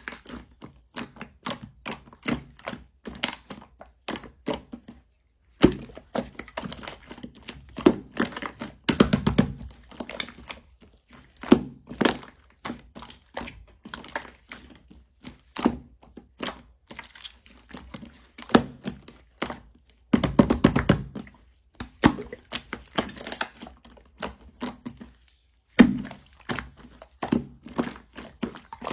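Close-up handling of a crunchy clay-like material: irregular sharp clicks, cracks and soft thunks, with denser crackling flurries every few seconds.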